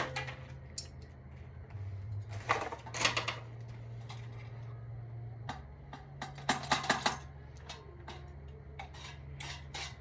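Small metal clinks and rattles in three short clusters as a ceiling fan is taken apart and its wiring undone, over a steady low hum.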